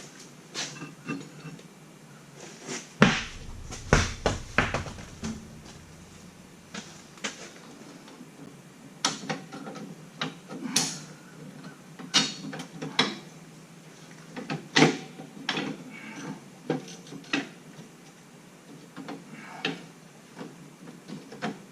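Irregular metallic clicks, clanks and knocks of hand tools and parts being worked on a car, with the loudest knocks about three and four seconds in.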